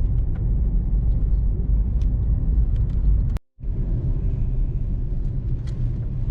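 Car driving: a steady low road and engine rumble, broken by a sudden brief drop-out about halfway through.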